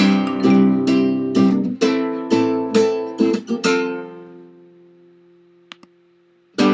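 Acoustic guitar strummed in a steady rhythm, about two strums a second, as a song intro. After about four seconds one chord is left to ring and fade away, with two faint clicks, before strumming starts again near the end.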